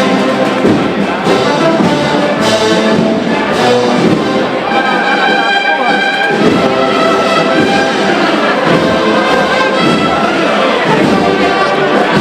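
Brass band playing a Holy Week processional march, with sustained brass chords.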